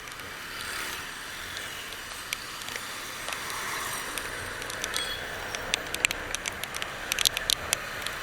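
Wind and road noise on the rider's microphone while riding a motorcycle, a steady rush with scattered sharp ticks that come thicker near the end.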